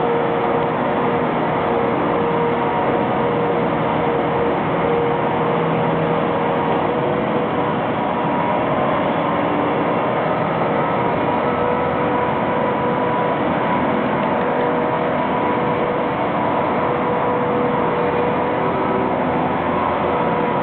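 Tractor running steadily while sweeping up dirt: a constant engine-and-machinery noise with a steady whine.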